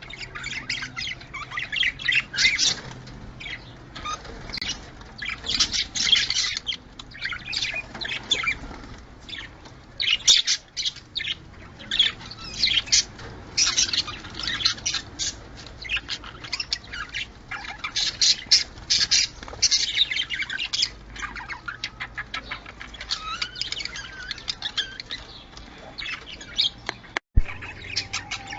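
Budgerigars chattering and warbling nonstop: rapid overlapping chirps and squawks, with a brief break near the end.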